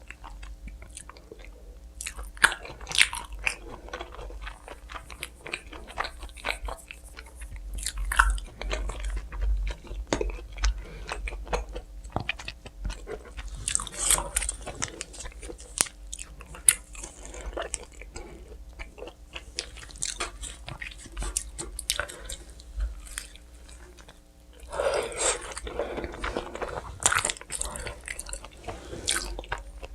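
Close-up eating sounds of pizza being bitten and chewed: crisp crunching and chewing with many small mouth clicks, busier and louder for a couple of seconds near the end.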